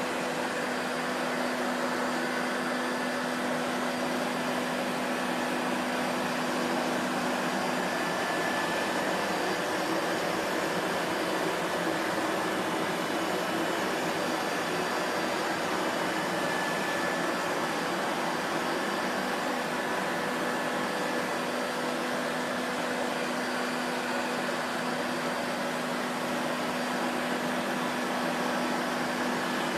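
Vacuum cleaner motor running steadily, a constant rushing hiss with a faint hum in it and no change in speed.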